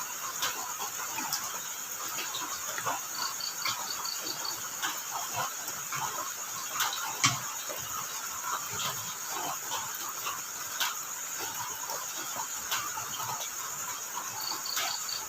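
Crickets chirping at night: a steady high insect buzz, with a short pulsed cricket chirp of about seven beats heard twice, about three seconds in and near the end. Scattered sharp clicks, like drips, sound throughout.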